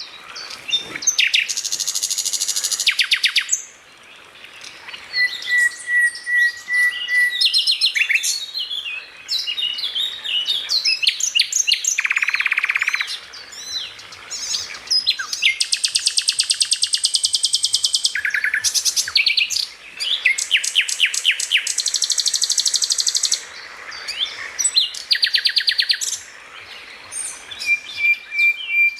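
Songbird masteran song: a loud, varied run of rapid trills, chattering rattles and buzzy phrases. Short strings of even whistled notes come about five seconds in and again near the end.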